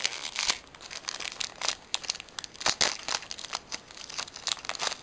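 Foil booster-pack wrapper being handled, crinkling and tearing open in a quick run of crackles.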